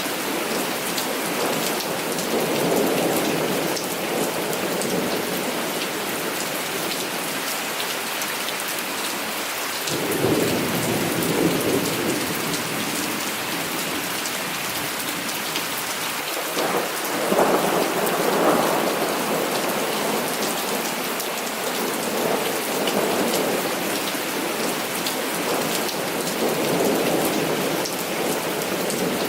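Heavy rain falling steadily, with rolls of thunder that swell and fade several times, the strongest about ten seconds in and again a little past halfway.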